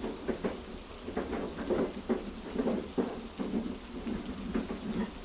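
Steady heavy rain with a low, constant rumble underneath and many small irregular patters.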